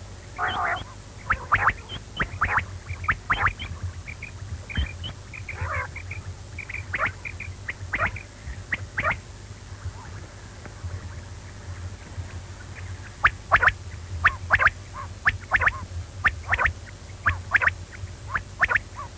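Quail calling: many short, sharp chirping notes in quick bunches, thickest in the last third, over a steady low hum.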